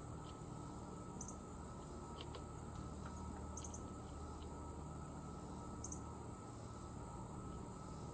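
Faint outdoor ambience: a steady high-pitched insect drone, with a few short, high bird chirps spaced a second or two apart over a low background rumble.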